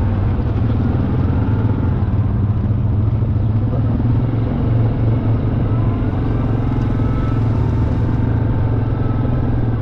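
Off-road vehicle engine running at a steady speed while under way, a constant low drone.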